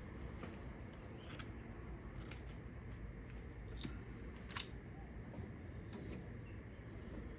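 Scattered light clicks and taps of hand tools and small engine parts being handled, over a low steady hum.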